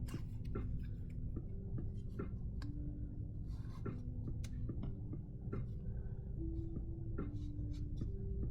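Quiet background music of slow, single plucked notes over a steady low hum, with light rustling and small taps of paper being handled.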